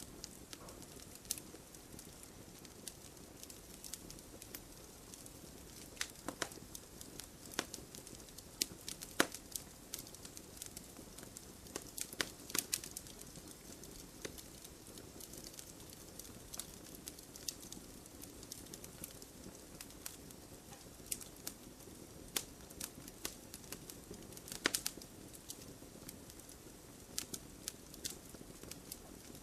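Campfire crackling: wood burning with a steady low hiss and irregular sharp pops and snaps.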